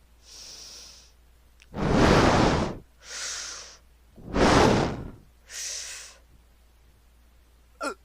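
A person's exaggerated heavy breathing close to the microphone: hissing in-breaths alternate with two loud, rushing out-breaths that blow onto the mic. A short falling squeak of voice comes near the end.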